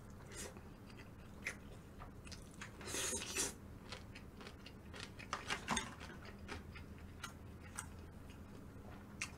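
Quiet chewing of food with scattered light clicks and taps of utensils and dishes, and a few short hissy mouth or rustle noises.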